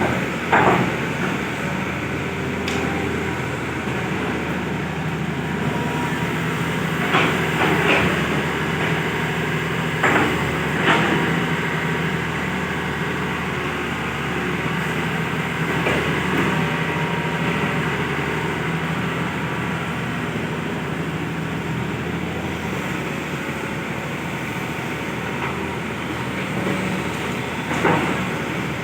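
Hitachi excavator's diesel engine running steadily as it digs a track, with a short sharp knock every few seconds as the machine works.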